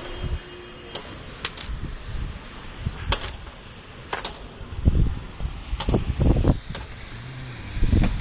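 Rain with scattered sharp taps of drops striking a hard surface over a steady hiss, and low buffeting of wind on the microphone about five seconds in and again near the end.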